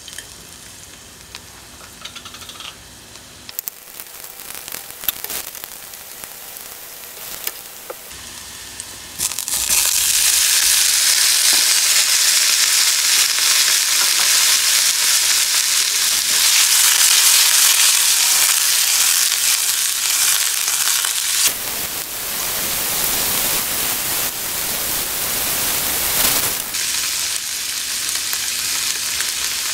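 Chopped aromatics crackling quietly in hot oil in a small pan. About nine seconds in, a loud steady sizzle starts as cubed tofu hits the oil and fries.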